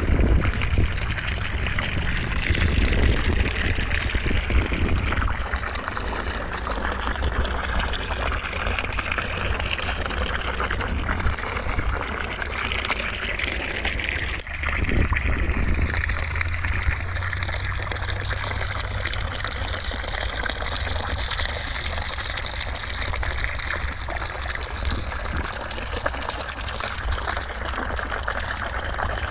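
Steady white noise: an unbroken rushing hiss like running water, its tone colour drifting slowly, with a brief dip about halfway through.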